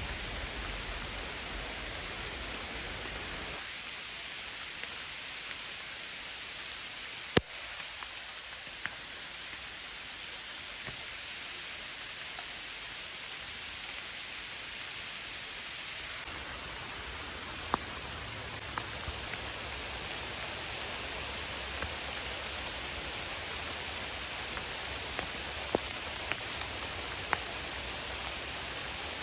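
Steady rain with scattered sharp drips and ticks, one louder knock about seven seconds in.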